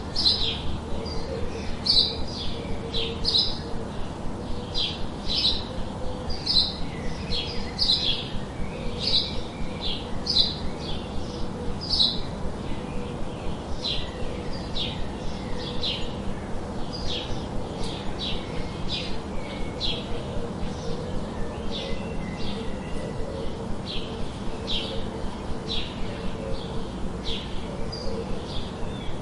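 Small birds chirping: short high notes repeated about one to two times a second, over a steady background hiss.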